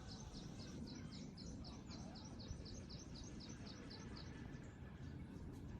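A bird calling: a rapid run of short, high, evenly repeated chirps, about four a second, that stops about four and a half seconds in, over a steady low background hum.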